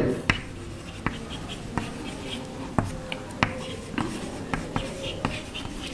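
Writing by hand: short scratching strokes, with many sharp little taps of the writing tip scattered through.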